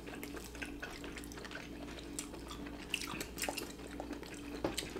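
Quiet wet chewing and lip smacks from people eating butter-grilled abalone: scattered small, irregular clicks over a faint steady hum.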